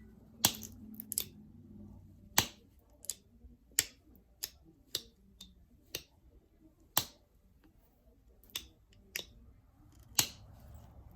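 Novaculite being knapped into a stemmed point: sharp, crisp clicks as flakes snap off the stone, about fourteen of them at an uneven pace of one every half second to second and a half.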